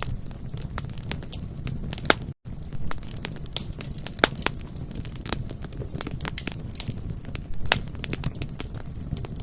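Bonfire crackling, with frequent sharp pops and snaps over a low, steady rumble of the flames. The sound cuts out completely for an instant about two and a half seconds in.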